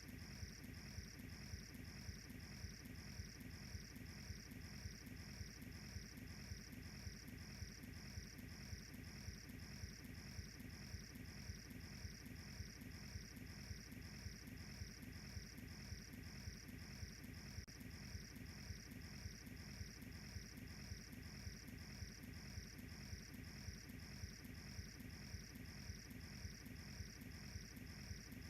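Crickets chirping in an even, regular rhythm of about two chirps a second, with the soft crackle and low rumble of a wood fire underneath.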